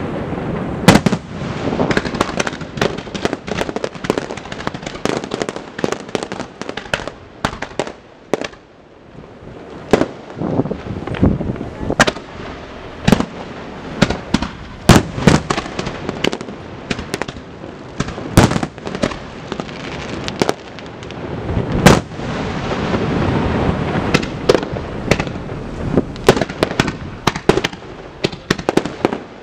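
Aerial fireworks shells bursting in rapid, irregular succession: loud sharp bangs and crackling reports, with a short lull about eight seconds in before the barrage picks up again.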